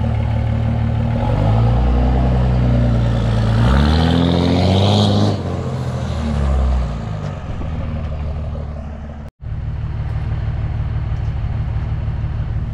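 Dodge Ram 2500's 5.9-litre Cummins inline-six turbo diesel running through its freshly repaired exhaust: revved up over a few seconds, falling back about halfway through, then idling steadily after a split-second gap in the sound.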